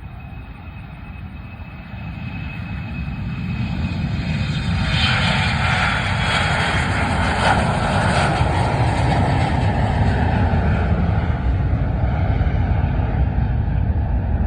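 Airplane engines passing close by. The sound swells over the first few seconds and is brightest about five to eight seconds in, then settles into a steady low rumble.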